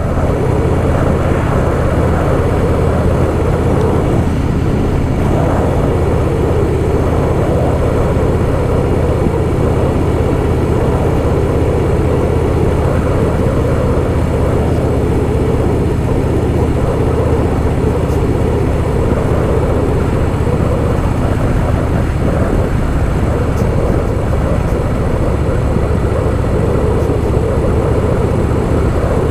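Harley-Davidson Softail Fat Boy's V-twin engine running steadily while cruising, with road and wind noise.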